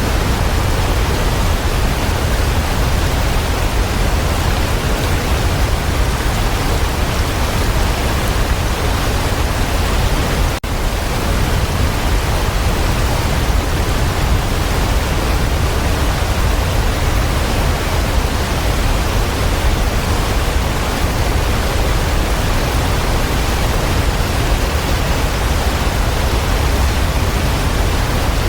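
Waterfall: steady, loud rushing of falling water, with a momentary drop in level about ten seconds in.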